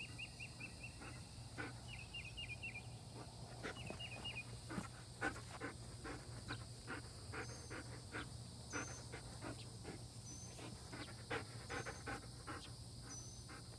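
A dog panting steadily, about two or three breaths a second. Quick trilled chirps come in the first few seconds, and a short high chirp repeats every second or so later on.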